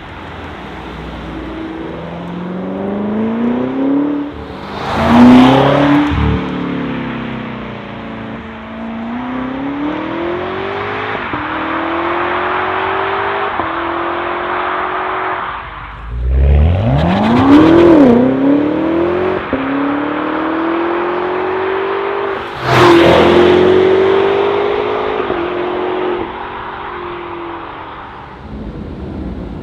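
BMW G99 M5 Touring's twin-turbo V8 through an iPE cat-back exhaust, accelerating through the gears. The pitch climbs, drops at each upshift and climbs again, with three louder, harder surges spread across the stretch.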